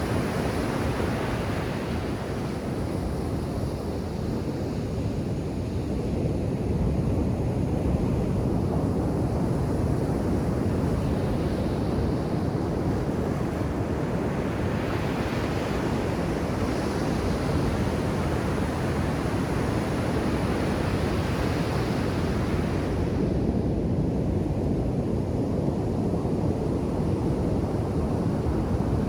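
Ocean surf breaking on a beach: a continuous low wash of waves, with the hiss of breaking water swelling up now and then and easing away. Some wind is on the microphone.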